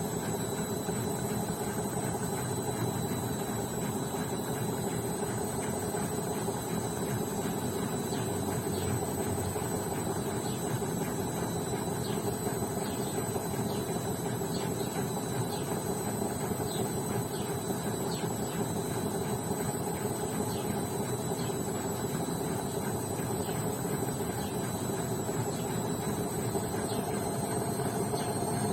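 BEKO washing machine running, its motor giving a steady whine over a churning hum. The whine rises slightly in pitch near the end as the drum speeds up.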